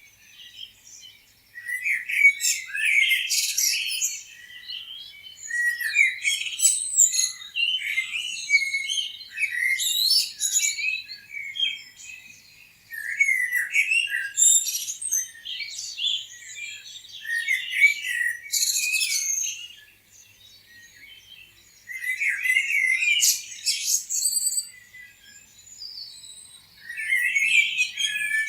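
Several small songbirds chirping and singing in overlapping bursts of quick, high chirps and trills. There is a short lull at the start and another about two-thirds of the way through.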